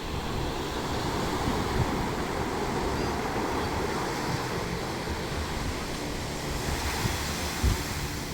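Sea surf washing onto a beach, a steady rushing noise, with wind buffeting the microphone and a short bump from a gust near the end.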